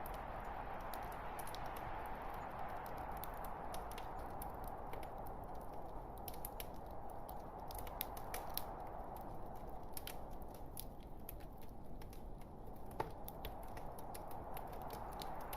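Wood logs burning in a fireplace: a steady soft rush of flame with frequent small crackles and pops, and a sharper pop about two-thirds of the way through.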